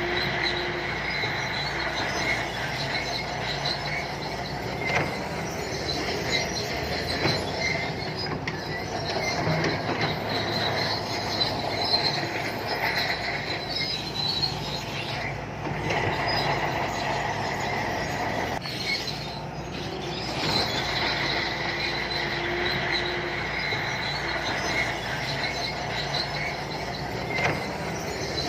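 Shantui crawler bulldozer working, its diesel engine running under load while the steel tracks squeal steadily, with scattered clanks.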